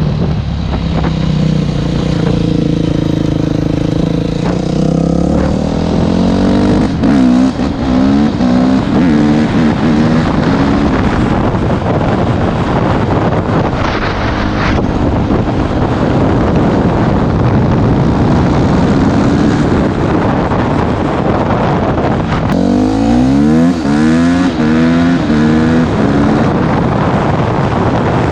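Yamaha YZF 250 dirt bike's single-cylinder four-stroke engine accelerating hard, its pitch climbing and dropping back in steps as it shifts up through the gears, twice: about six seconds in and again near the end. Wind noise rushes on the microphone throughout.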